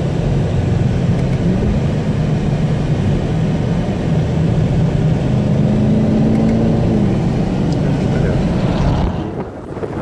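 Car engine and tyre noise heard from inside the cabin while driving a lap of a race track, the engine note stepping up and down in pitch a few times over a steady low rumble. The sound dips briefly near the end.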